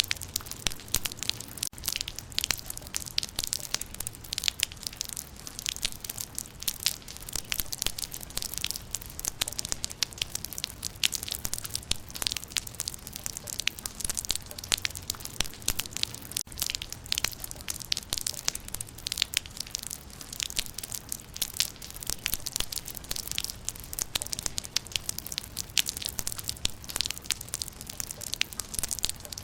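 Rain falling on leaves: a dense, irregular patter of sharp drop ticks that runs on steadily.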